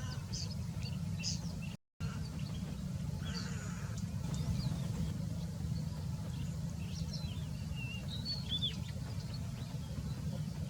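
Small birds chirping, short high calls scattered throughout over a steady low rumble, with a brief cut-out of all sound about two seconds in.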